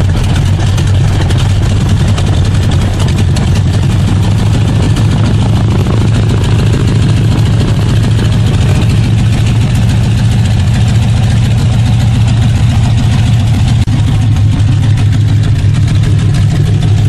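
Radial engine running steadily and loudly, with an even, rapid pulsing note that does not change in speed.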